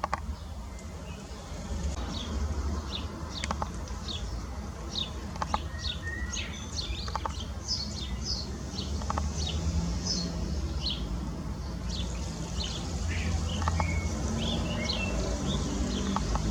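Garden birds chirping: many short, quick calls overlapping, over a steady low rumble.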